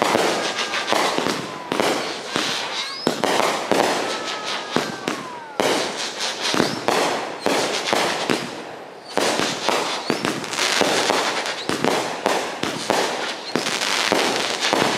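Aerial fireworks going off overhead in rapid bangs and crackling bursts, with several whistles gliding down and up in pitch. There is a brief lull about eight seconds in, then a denser run of bursts.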